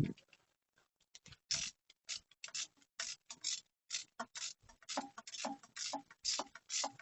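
Hand ratchet wrench clicking in quick short back-and-forth strokes, about three a second, tightening the intake manifold bolts. A single knock sounds right at the start.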